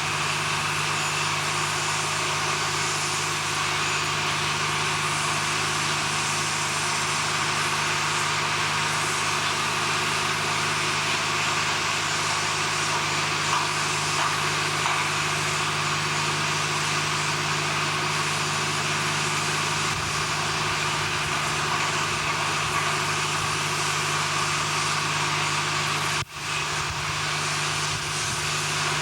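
Steady drone of heavy machinery running, with a constant low hum beneath a wide noise; the sound cuts out for a split second about 26 seconds in and then carries on unchanged.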